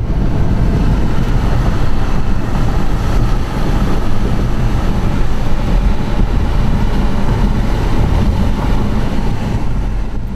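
Loud, steady rush of wind buffeting the microphone together with the rumble of a vehicle on the move.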